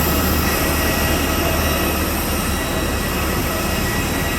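Steady vehicle engine drone: a low hum with several faint, steady whining tones above it.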